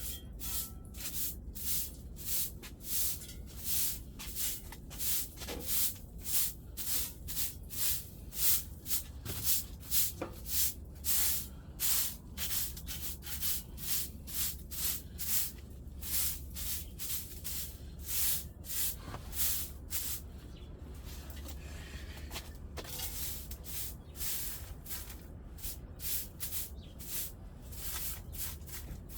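Brush scrubbing a wood-burning stove during cleaning: quick, rhythmic scraping strokes, about two a second, with a brief let-up about two-thirds of the way through.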